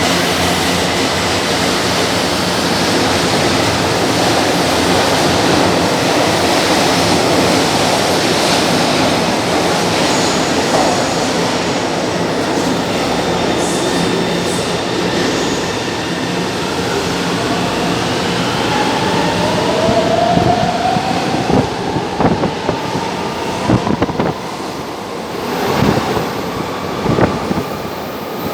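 São Paulo Metro train running through the station with a steady rumble. In the second half a motor whine rises in pitch, and wheels clack sharply several times near the end.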